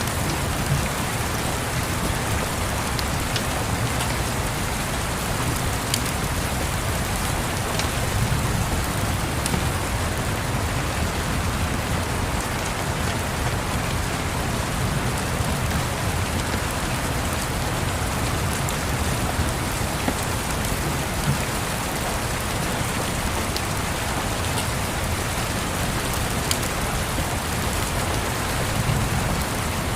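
Steady rain with a few faint crackles of a wood fire. A low rumble of distant thunder swells a few times.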